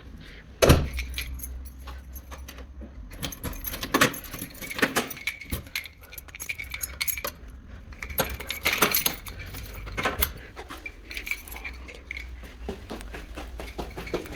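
Small hard objects being handled: a run of irregular clicks, taps and light clinks, the loudest about a second in.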